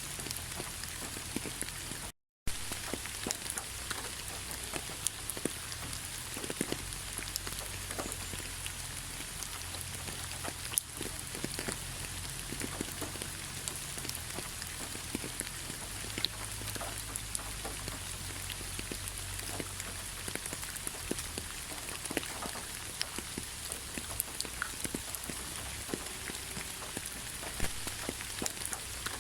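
Heavy rain falling steadily on a surface: a dense, even hiss dotted with many individual drop taps. The sound cuts out completely for a fraction of a second about two seconds in, then resumes as before.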